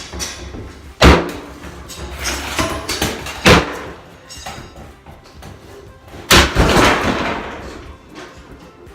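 Sledgehammer demolition: three heavy smashing blows about a second, three and a half and six seconds in. The last blow is followed by a long clatter of falling debris.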